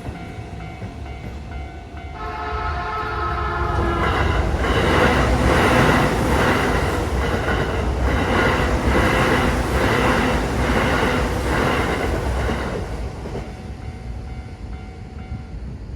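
Keio Line electric train passing a level crossing. It grows loud about two seconds in and stays loudest from about four to thirteen seconds, with a regular clack roughly every half second, then fades. Steady ringing tones of the crossing's warning signal sound throughout.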